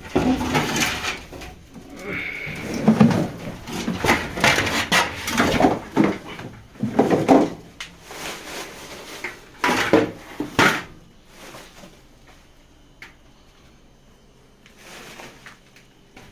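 Irregular knocks and clattering of objects being handled, loud for about twelve seconds and then dying down to a few faint knocks.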